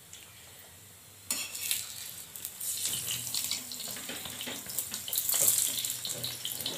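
Fat-smeared aloo paratha sizzling and crackling on a hot iron tawa. It starts suddenly about a second in, when the paratha is turned onto its greased side, and keeps crackling while it is pressed down with tongs.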